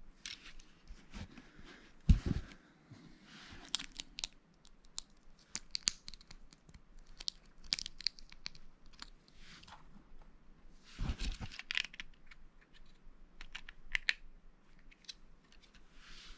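Lego pieces being handled and clicked together, with scattered small clicks and rustling. Two heavier knocks come about two seconds in and about eleven seconds in.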